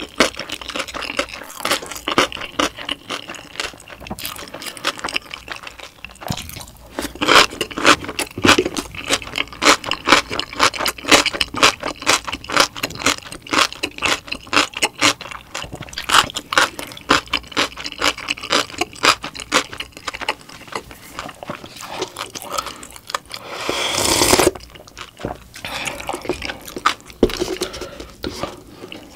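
Close-miked chewing of a mouthful of dumplings: a run of wet smacking and clicking mouth sounds. About three-quarters of the way through comes one short, loud rush of breathy noise.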